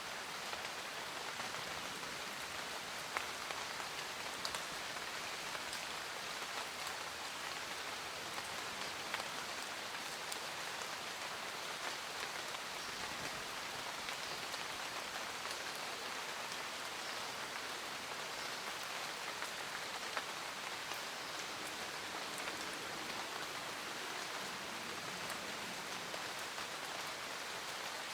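Steady rain falling, with occasional single drops standing out as sharper ticks.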